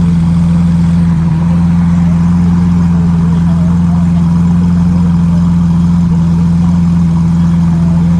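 A car engine idling steadily and loudly: a deep, even hum with no revving.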